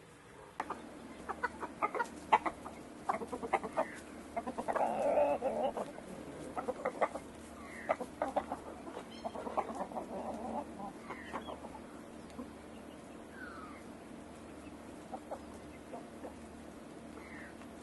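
Chickens clucking: a run of short clucks, busiest in the first ten seconds, then sparser.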